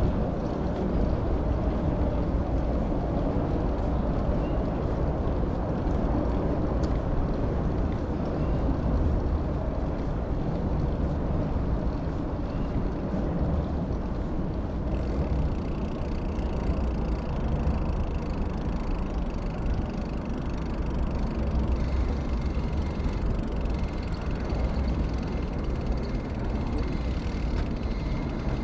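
Steady wind rumble on the microphone of a camera riding along on a moving bicycle, with road noise underneath.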